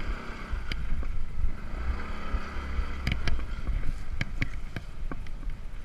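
Motor scooter riding over a rough sandy, stony track, with wind buffeting the microphone and a run of sharp knocks and rattles from the bumpy ground about three to four seconds in.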